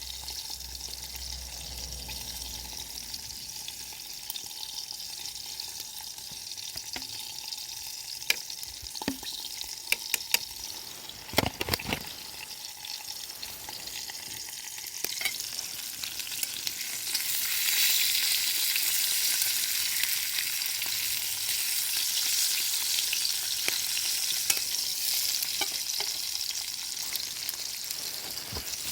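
Food sizzling as it is stir-fried in a pot, with a few sharp clicks and knocks between about eight and twelve seconds in. The sizzle gets louder about seventeen seconds in.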